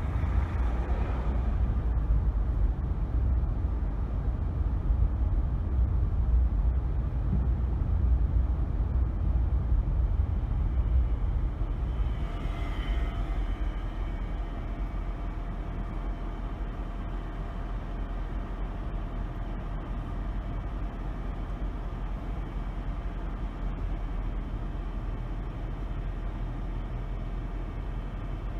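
Car driving through city streets: a steady low rumble of road and engine noise, louder for the first dozen seconds, then settling quieter. About halfway through, a brief higher-pitched whine sounds over it.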